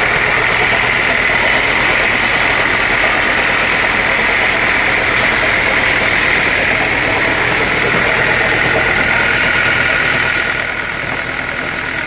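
Sawmill saw cutting through a log: a loud, steady, rushing machine noise. The noise drops near the end, leaving a steadier whine.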